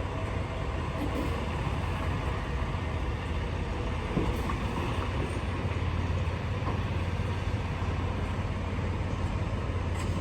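Semi truck's diesel engine running steadily, a low even rumble.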